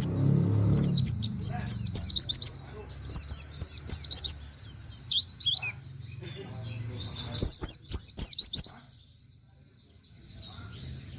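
White-eye (pleci) singing in fast runs of high, down-sweeping chirps, mixing 'wit wit' notes with canary-like phrases. The song goes quieter for about a second near the end.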